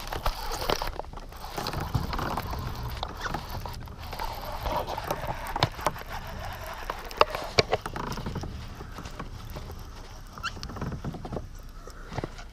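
Scattered knocks, clicks and rustling as a fish is brought in and handled aboard a kayak.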